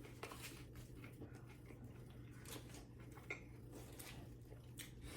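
Near silence: faint, scattered soft clicks of a person chewing a sandwich, over a low steady hum.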